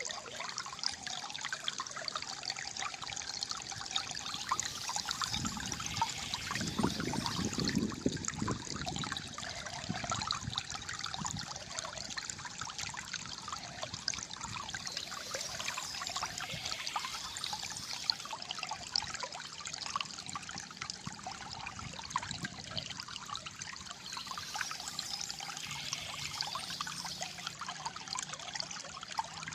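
Calm flowing water trickling and gurgling steadily, with a deeper, louder gurgle about six to nine seconds in.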